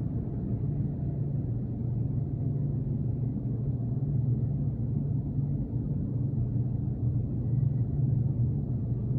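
Steady low mechanical hum with an even droning tone, unchanging throughout.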